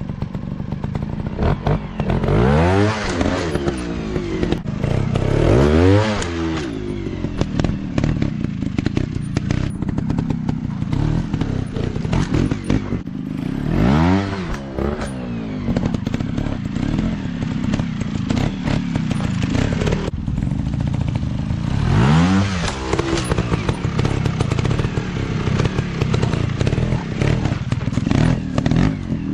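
Off-road dirt bike engines running and revving up and down over and over, the pitch climbing and falling every few seconds, with frequent short knocks and clatter throughout.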